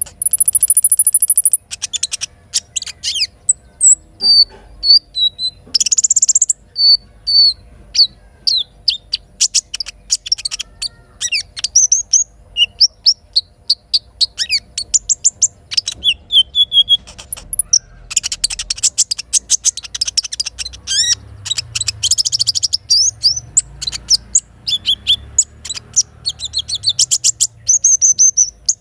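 Little spiderhunter (sogok ontong) singing: quick high chirps, short rising and falling notes and rapid trills in a dense run, with a brief buzzy trill about a second in.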